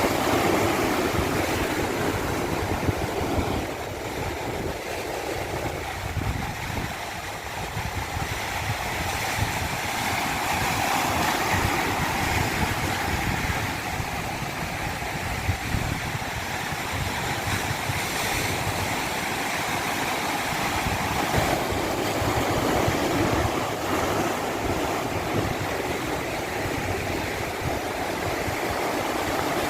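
Steady rush of running water from a natural stream, swelling and easing slightly over the seconds.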